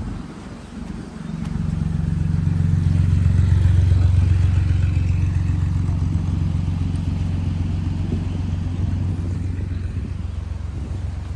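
An engine running with a steady low hum. It swells over the first few seconds, then holds, easing slightly.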